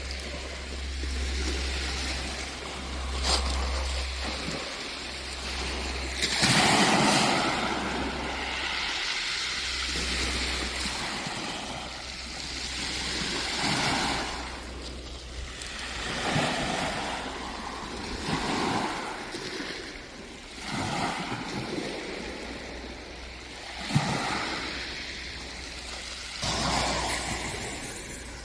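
Wind buffeting the microphone while cycling, a rushing noise with a steady low rumble that swells and fades in irregular gusts, with a brief sharp knock about two-thirds of the way through.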